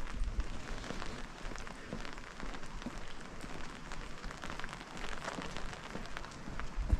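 Rain falling, with scattered drops pattering close by, and a low thump near the end.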